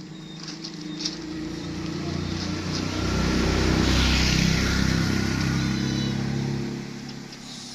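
A motor vehicle's engine passing by: it grows louder over about two seconds, holds near its peak for a few seconds, then fades away.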